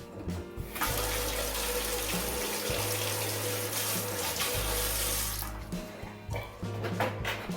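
Kitchen tap running into the sink for about five seconds, turned on about a second in and shut off past the middle, followed by a few light knocks.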